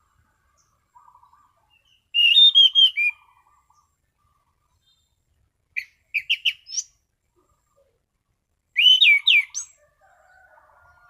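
Orange-banded thrush (anis cendana) singing in the open, full-voiced 'ngeplong' style: three short, loud phrases of clear, slurred whistled notes, a few seconds apart. Fainter, lower twittering shows briefly before the first phrase and again near the end.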